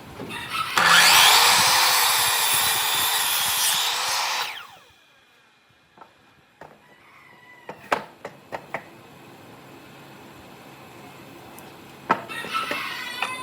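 A power tool running on wood for about three and a half seconds, then winding down with a falling whine. Several sharp knocks and taps of wood follow, and near the end another burst of tool noise begins.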